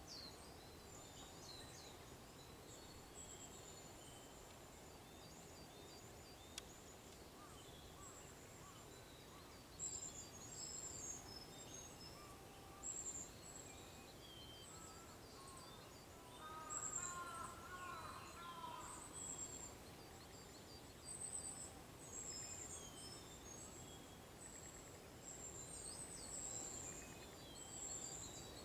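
Faint dawn birdsong: several small birds giving short, high chirps and twitters over a steady outdoor hiss, busier in the second half, with a lower warbling song phrase about two-thirds of the way through.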